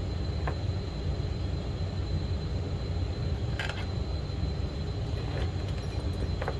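Steady low rumble with a faint high steady tone above it, and three short light clicks or knocks, about half a second in, near the middle and near the end.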